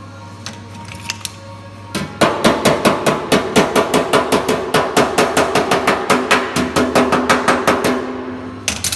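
Fast series of hammer blows on sheet steel, about six strikes a second with a metallic ring, then a pause and two last blows near the end, typical of shaping or planishing a welded motorcycle fuel tank. Background music underneath.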